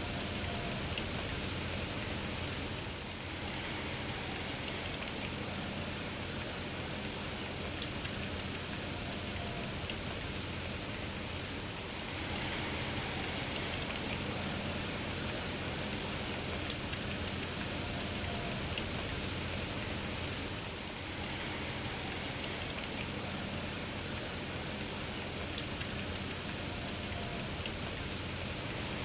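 Steady rain falling, an even patter with a sharp tick about every nine seconds.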